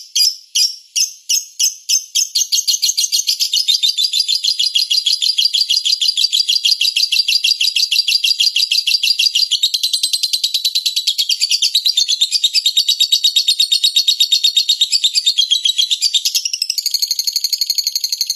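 Recorded songbird chirping: separate sharp chirps about three a second that quicken within a few seconds into a fast, continuous high trill, the pattern changing near the end.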